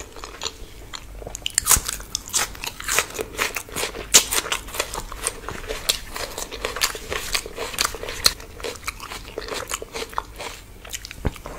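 A person eating: irregular crunching and chewing, several sharp crunches a second.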